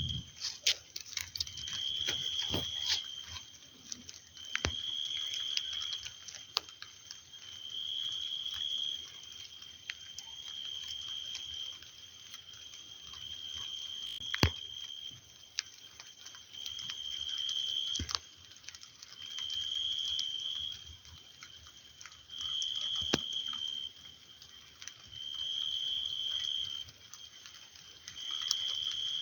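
Rain falling, with scattered sharp drip clicks, under a high-pitched call that comes about every three seconds and lasts about a second each time.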